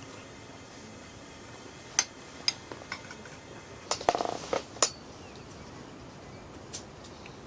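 A few light clinks and knocks of camp dishes and utensils being handled, with a quick rattling run of clicks about four seconds in, over a steady hiss of rain.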